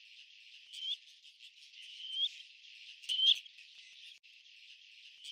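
Black-necked grebe giving short, rising whistled calls, three in about a second and a half spacing, over a steady high hiss.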